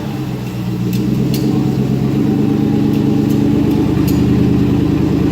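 Twin-turbo Ford Coyote 5.0 L V8 running on a chassis dyno. It drops off briefly at the start, then builds back up over a second or so and holds a steady drone, with a few faint sharp clicks.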